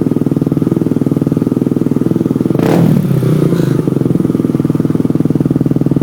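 Kawasaki KLX125 single-cylinder four-stroke engine idling through a Racing Spec stainless steel exhaust, with a steady, even pulse. About halfway through, the throttle is blipped once briefly before the engine drops back to idle.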